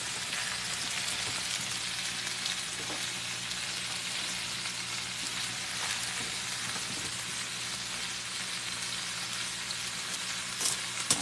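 Meatloaf patties sizzling steadily in hot fat in a skillet, with a faint low hum underneath. A couple of short clicks come near the end.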